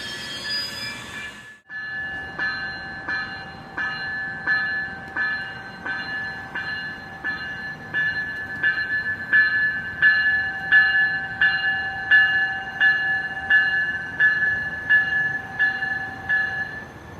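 Railroad grade-crossing warning bell ringing in a steady rhythm of evenly spaced, ringing strikes, signalling an approaching train.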